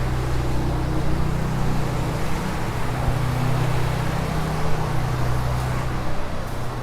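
Steady low engine or motor hum with an even noisy rush over it.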